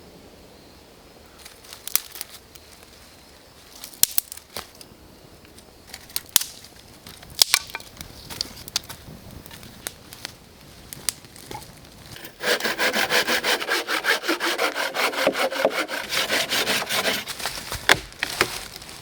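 A hand saw cutting through wood: about five seconds of fast, even rasping strokes near the end. Before it come scattered sharp snaps and knocks of wood.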